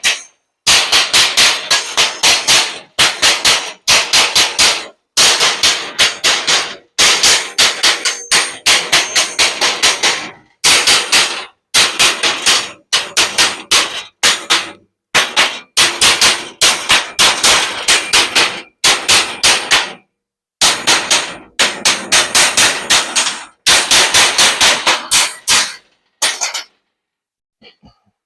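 A hammer striking metal: rapid blows, several a second, in bursts of a second or two with short pauses between, stopping near the end.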